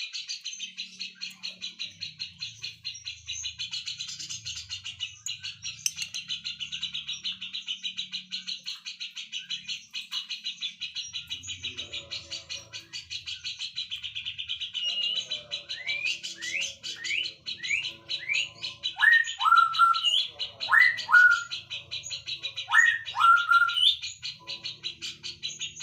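Birds singing over a steady, high, rapidly pulsing trill. About two-thirds of the way through, a bird gives a run of short rising whistled notes, followed by several loud sweeping calls near the end.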